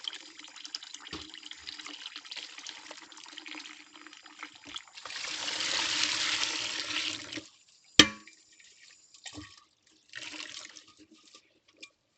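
Hand-washing utensils at a kitchen sink: water trickling and splashing, then a stronger rush of tap water for about two seconds that cuts off. About eight seconds in comes one sharp clink, the loudest sound, followed by a few small clinks and a brief splash.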